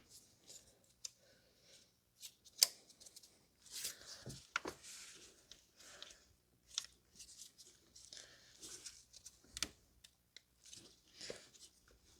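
Hands pressing and working plastic ignition coils and their connectors into place on an engine, making faint, scattered clicks and rustles, with a sharper click about two and a half seconds in and another near the end.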